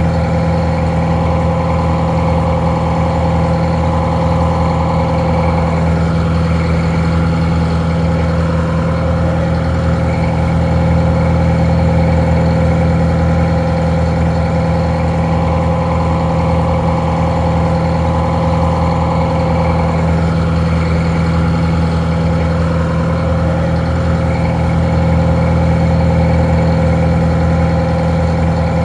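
Detroit Diesel 4-71 two-stroke diesel engine idling steadily, slightly muffled; it is the engine that drives a barge winch.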